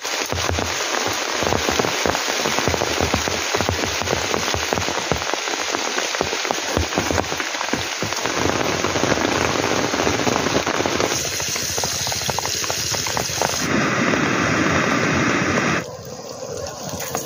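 Heavy rain pouring, a dense patter of drops hitting a surface. The rain's sound changes abruptly twice, about two-thirds of the way through, then turns quieter near the end.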